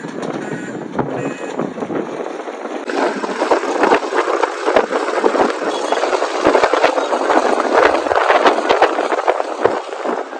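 Motorcycle engine running while the bike is on the move, with a rattly, noisy sound that gets louder and fuller about three seconds in.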